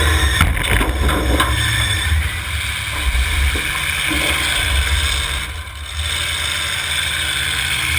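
Demolition derby cars' engines running loudly together in a steady low rumble, with a few knocks in the first second or so.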